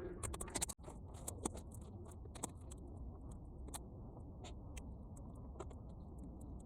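Bonfire of half-dried weeds crackling, with irregular sharp pops over a steady low rumble.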